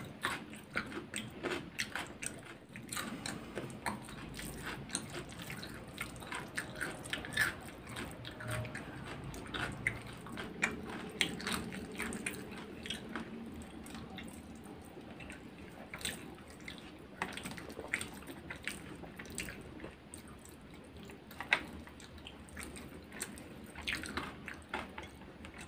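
A person eating chicken biryani by hand: wet chewing and lip-smacking with many short sharp clicks throughout, with a sip from a bowl of gravy right at the start and fingers squishing rice.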